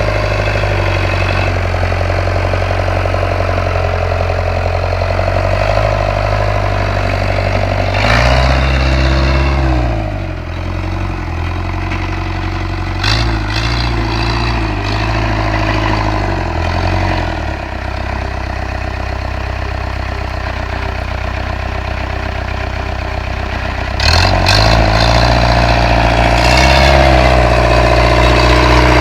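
Engine of a homemade tractor built from an ARO off-road vehicle, running at idle and revved several times. The pitch rises about eight seconds in, comes up and down a few times in the middle, and rises again near the end.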